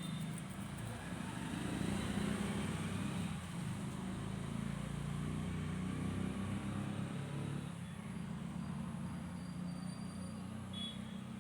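A motor vehicle's engine running nearby with a low, steady hum. It grows louder about two seconds in and eases off near the end.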